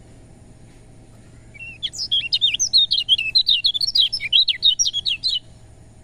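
Kecial kuning, a Lombok white-eye, singing one rapid twittering phrase of high notes that starts about two seconds in and lasts about three and a half seconds, over a faint steady background hiss.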